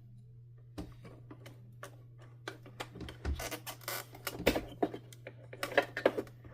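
Clicks and clatters of a partly dismantled Hoover Dimension 1000 canister vacuum's housing parts being handled and shifted, sparse at first and busier in the second half, over a steady low hum.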